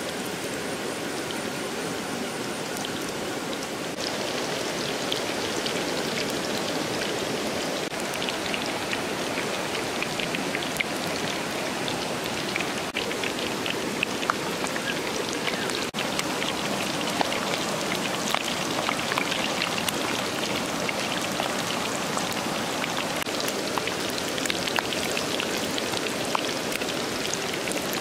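Hot oil hissing in a wok, then from about four seconds in a louder, steady sizzling with frequent small crackles as egg-battered fish pieces deep-fry.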